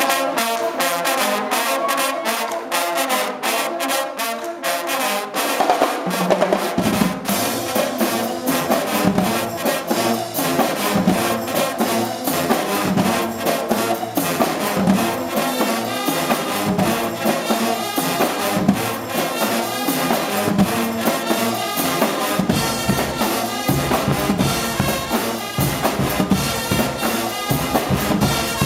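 Guggenmusik brass band playing loudly with trumpets, trombones and drums; the low bass brass joins in about seven seconds in.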